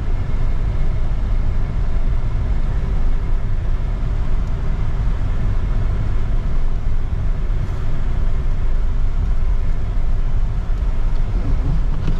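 Strong wind buffeting the phone's microphone, a steady low rumble with no breaks.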